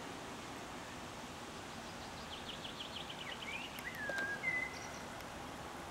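A bird calling, about halfway through: a quick run of about ten short high notes, then a few slurred whistles, over a steady background hiss.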